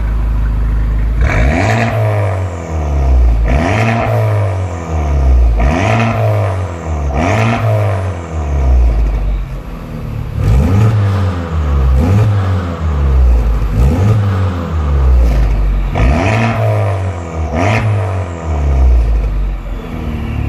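Honda Civic Type R FK8's 2.0-litre turbocharged four-cylinder, fitted with an Armitrix valved aftermarket exhaust, idling and then blipped about eight times, roughly every two seconds, each rev rising and falling back to idle.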